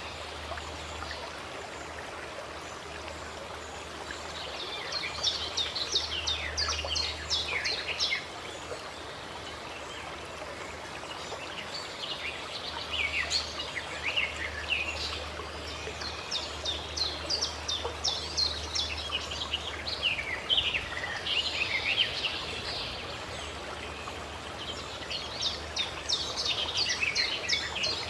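Steady running water from a spring, with songbirds singing in three spells of quick, high chirping notes.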